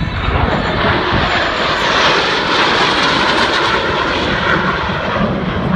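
Jet engine noise from four F-16 fighters flying by in formation, loud, building over the first two seconds and then holding steady.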